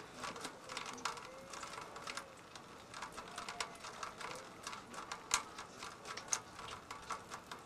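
Irregular clicking and crackling, loudest twice near the end, with faint distant voices.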